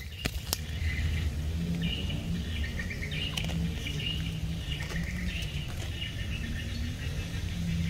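Small birds chirping repeatedly over a low, steady hum, with two sharp clicks just after the start.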